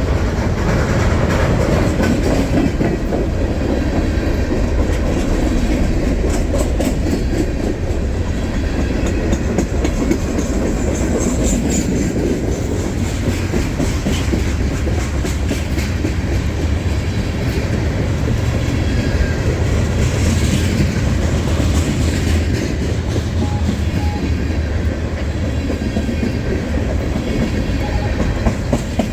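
Freight train cars rolling past close by: a steady rumble of wheels on rail, with clickety-clack at times as the wheels cross rail joints.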